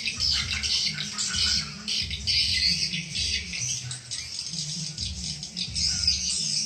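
Swiftlet call-and-lure sound: dense, buzzy twittering chirps of swiftlets over a low pulsing throb, the kind of recording played to draw swiftlets into a bird house.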